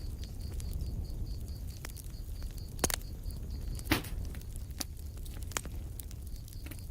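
Wood fire crackling in a fireplace: a steady low rumble of flames with frequent small crackles and two louder pops about three and four seconds in. A faint high-pitched pulsing, about four pulses a second, runs behind it, stopping briefly in the middle.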